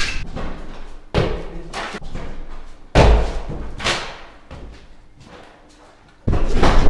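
Three heavy slams: one about a second in, a louder one near three seconds that dies away slowly over a few seconds, and another just before the end.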